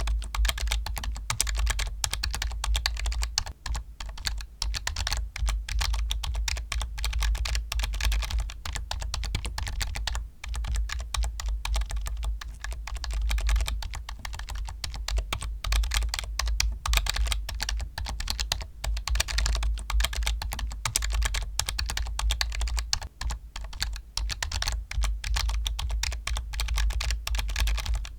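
Computer keyboard typed on quickly and continuously, dense clacking keystrokes with brief pauses now and then.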